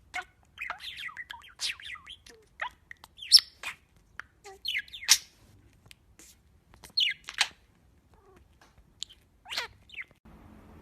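Small pet parrots chirping and squawking in short, sharp calls, the loudest about three and five seconds in. Just before the end the sound cuts to a steady low hiss.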